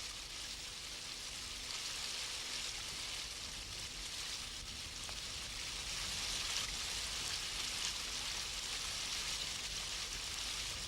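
Steady rush of water pouring over a weir, an even hiss that holds without a break.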